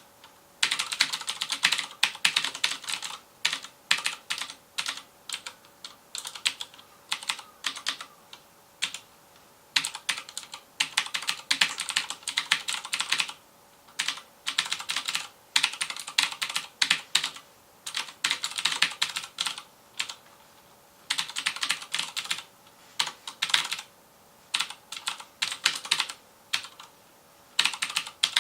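Fast typing on a FILCO Majestouch Convertible 2 mechanical keyboard with clicky Cherry MX Blue switches. Runs of rapid key clicks come in bursts of a second or two, separated by short pauses.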